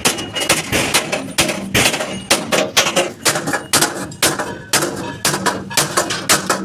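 Hammer blows on truck cabin sheet metal during dent repair: sharp metallic strikes, irregular, about two to three a second.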